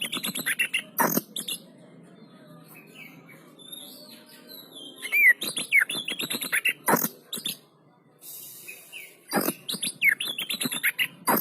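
Oriental magpie-robin (kacer) singing in three loud bursts of rapid, varied whistles and sharp notes, with quieter pauses in between.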